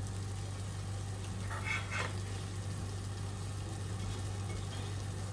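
Faint, steady sizzle of diced tomatoes and capers cooking in olive oil in a stainless steel frying pan, over a constant low hum, with a brief soft sound a little under two seconds in.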